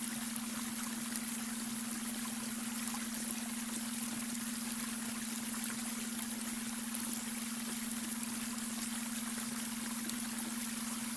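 Babbling brook: water trickling and bubbling in an even, unbroken rush. A steady low tone runs beneath it, the beta-wave brainwave tone blended into the track.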